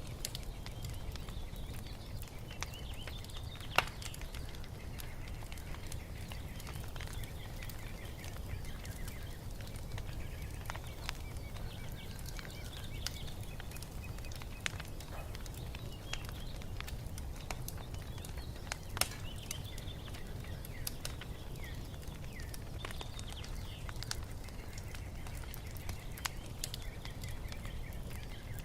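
Wood fire crackling over a steady low rumble, with a few sharp pops, the loudest a few seconds in and again past the middle. Birds chirp and trill faintly throughout.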